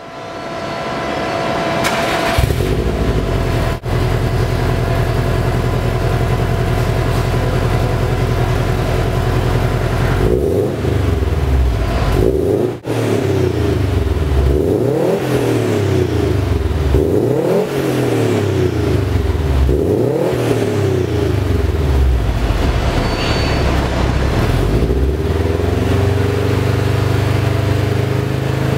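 Subaru Impreza WRX STI turbocharged flat-four engine heard through a 3-inch stainless steel cat-back exhaust. It idles steadily, then is revved up and let fall back about five times in a row, and settles back to idle near the end.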